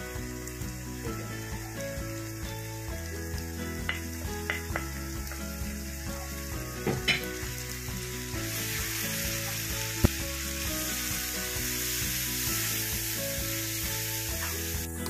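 Onions frying in oil in a pan, sizzling steadily as ground spices are stirred in, with the hiss growing louder and brighter about halfway through. A wooden spatula scrapes and knocks against the pan a few times.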